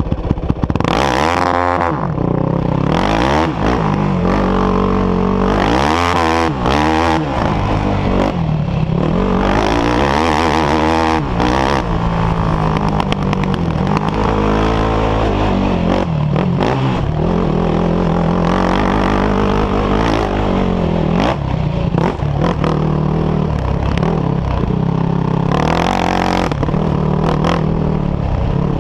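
Off-road engines running hard, the note repeatedly rising and falling as the throttle is opened and closed, with a steady engine drone underneath.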